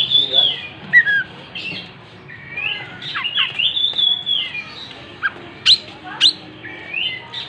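Oriental magpie-robin (kacer) singing: a continuous run of varied whistled phrases that slide up and down, with two sharp, high notes about two-thirds of the way in.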